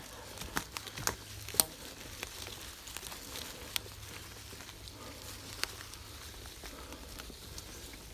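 Gravel bike tyres rolling over a forest track, with a steady low rumble and irregular crackles and ticks from grit and twigs under the wheels. The sharpest crack comes about a second and a half in.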